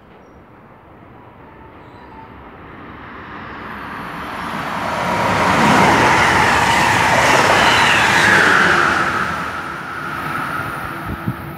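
Amtrak electric passenger train of stainless-steel Amfleet coaches passing at speed: the rush of wheels on rail builds over about five seconds, stays loud for about three, then fades.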